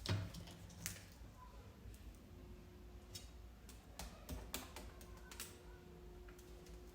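A soft thump at the start, then scattered light clicks and taps, a few close together about four seconds in.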